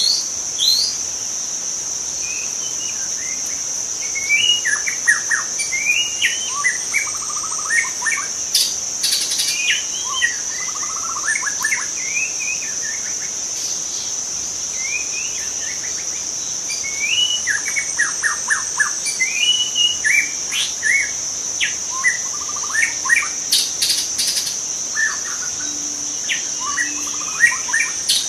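White-rumped shama (murai batu), a young bird, singing in two bouts of varied short whistles, chirps and quick note series, over a steady high-pitched insect drone.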